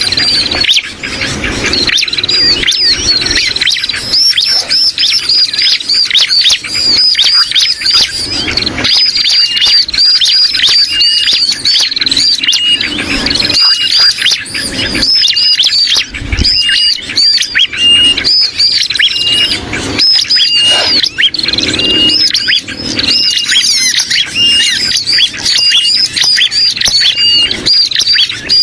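Bird-lure recording of bar-winged prinias chirping in a dense, rapid, unbroken stream, mixed with the agitated and distress calls of sooty-headed bulbuls, a combination played to draw prinias in.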